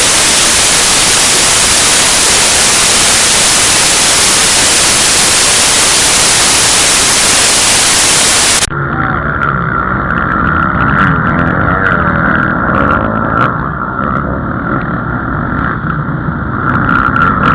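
Loud, steady static hiss that cuts off abruptly about nine seconds in. It gives way to motocross motorcycle engines running on the track, their pitch wavering.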